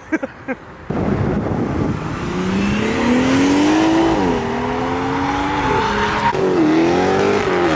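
Dodge Hellcat's supercharged V8 revving hard through a short burnout, tyres squealing. The engine pitch climbs, drops sharply about four seconds in and again about six seconds in, then climbs again each time.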